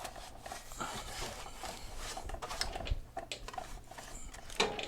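Uneven rubbing of a cloth being worked by hand over plastic mobility-scooter shrouds, with scattered light knocks and scrapes of the plastic being handled.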